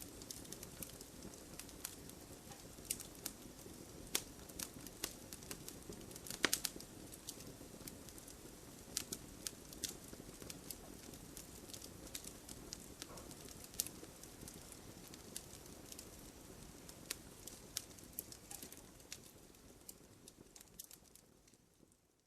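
Wood fire in a fireplace crackling, with irregular sharp pops over a soft, steady rush of flame; the loudest pops come about six and a half seconds in. The sound fades out near the end.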